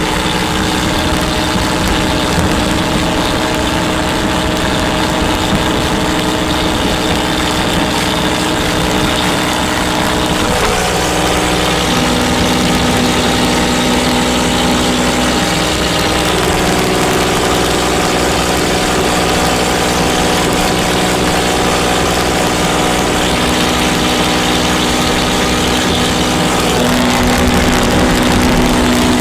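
Tractor engine running steadily, with a change in its note about ten seconds in.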